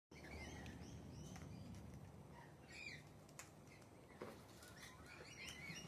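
Birds chirping faintly, a scattered series of short, quick calls, with a few light clicks.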